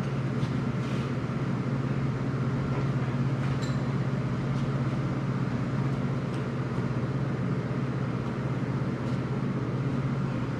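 Steady low electrical hum of a switched-on Miller Syncrowave 180 TIG welder standing ready to weld, with a few faint light ticks.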